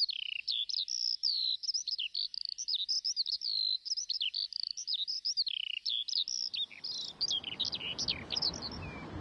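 Birds chirping: a fast, unbroken run of short, high, sweeping chirps that stops near the end. From about six and a half seconds, a steady low street noise fades in under it.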